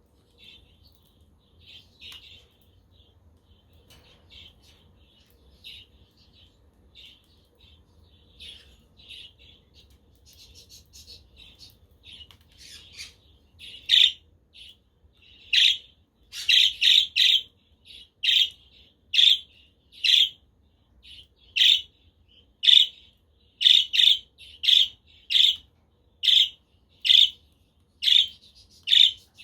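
Pet budgerigars chirping softly. From about halfway, a loud short bird call repeats roughly once a second.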